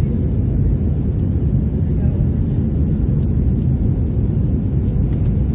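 Steady low rumble of a jet airliner's engines and airflow, even and unbroken.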